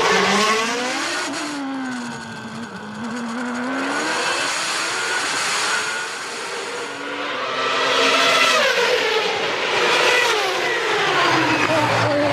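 1993 Formula One cars' high-revving racing engines, the pitch falling and rising repeatedly as they brake, change gear and accelerate. It dips in loudness a couple of seconds in and swells again from about eight seconds, with several engines overlapping near the end.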